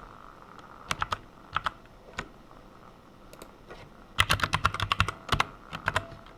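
Computer keyboard typing: a few separate keystrokes in the first couple of seconds, then a quick run of keystrokes from about four seconds in.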